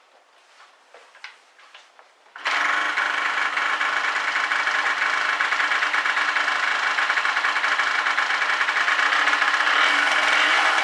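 A Yamaha TDR250's two-stroke parallel-twin engine running steadily after faint clicks; the engine sound comes in suddenly about two and a half seconds in and grows a little louder near the end.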